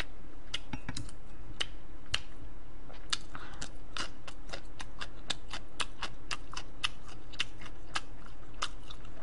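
A person chewing food close to a microphone: an irregular run of crisp clicks, about two to three a second, over a steady low electrical hum.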